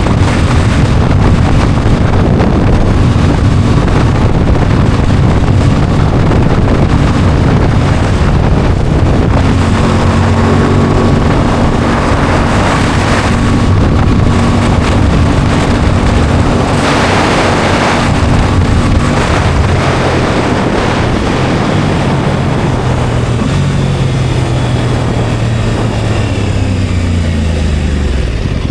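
Aprilia Tuono 660 Factory's parallel-twin engine running at steady revs under heavy wind noise on the microphone while riding. The engine note falls over the last few seconds as the bike slows.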